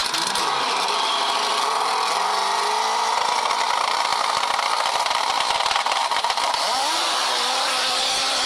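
Engine of a custom dirt drag motorcycle with a tractor-tread rear tyre, running and being revved, its pitch rising and falling; near the end the bike pulls away down the dirt strip.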